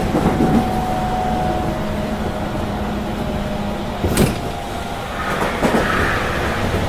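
Running sound inside an 813-series electric multiple unit's motor car as it slows into a station: the traction equipment's steady tones sink slightly over the rumble of the wheels on the rails. A sharp click comes about four seconds in, and a hiss rises near the end.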